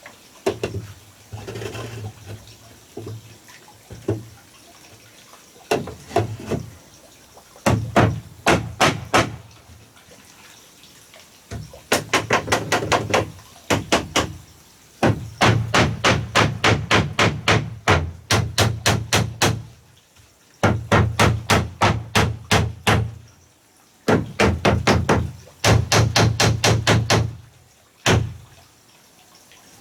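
A hand tool striking wood in quick, repeated blows, about five a second, in runs of several seconds with short pauses between them.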